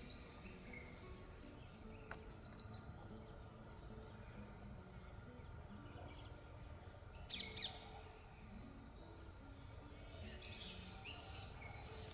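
Wild birds giving short, high chirps in a few brief bouts spread through, over faint steady outdoor background noise; the loudest bouts come about two and a half seconds in and again about seven and a half seconds in.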